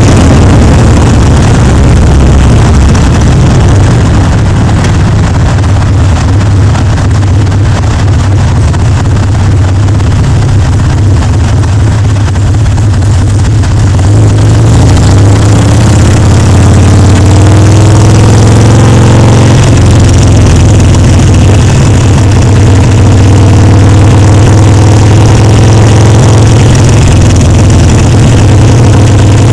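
Harley-Davidson Sportster Seventy-Two's air-cooled 1200 cc V-twin running loud through its pipes while riding, with wind noise on the microphone. Past the middle, the engine note climbs for a few seconds and then drops sharply.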